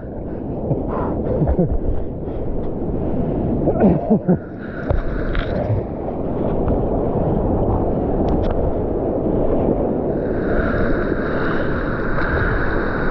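Rushing floodwater around a kayak, a steady wash of water noise, with wind buffeting the microphone.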